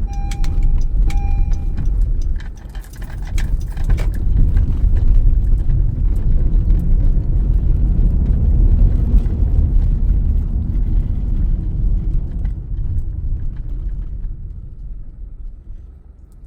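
Car driving, a strong low road and engine rumble with clicks and rattles around three to four seconds in, easing off near the end. A few short beeps sound in the first two seconds.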